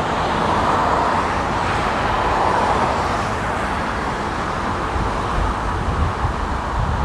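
Steady road-traffic noise, with wind buffeting the microphone in the second half.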